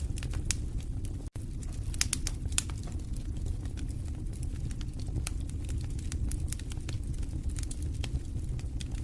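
Wood fire burning in a fireplace: a steady low rumble of flames with scattered sharp crackles and pops, the loudest pops about two seconds in. The sound cuts out for a split second a little over a second in.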